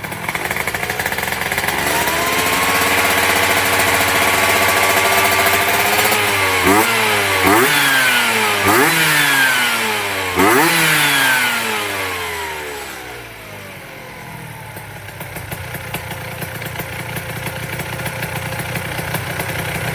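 Freshly built Vespa two-stroke engine with a Quattrini 144 cylinder kit being revved. It is held at high revs for a few seconds, then blipped sharply four times, then the revs fall back and it settles to a lower steady idle.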